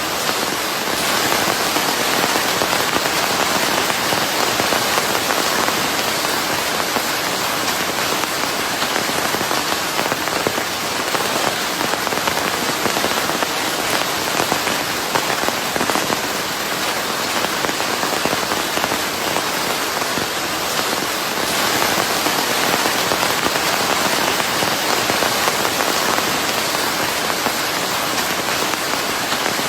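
Steady rain falling, an even dense hiss of drops blended with white noise.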